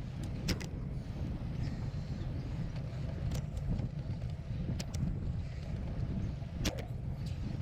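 Steady low rumble of wind buffeting the microphone while cycling, with a few sharp clicks or rattles scattered through it.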